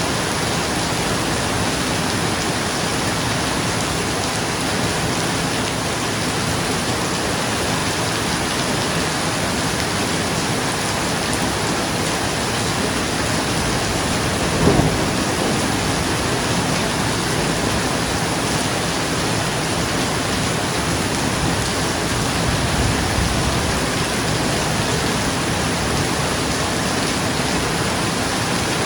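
Steady rain falling on a roof. About halfway through there is a brief loud clap of thunder, and some eight seconds later a softer low rumble.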